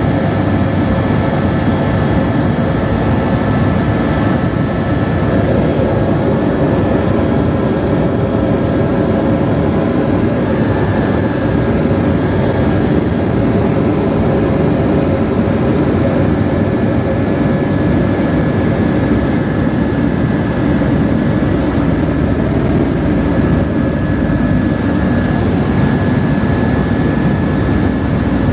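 Helicopter in flight, heard from inside the cabin: a steady, loud engine and rotor rumble with a thin, steady high whine over it.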